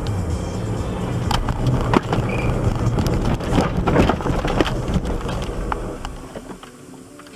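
Vehicle running with road rumble, and a string of sharp knocks and thuds in the middle, the loudest about two and four seconds in; the rumble then dies down near the end.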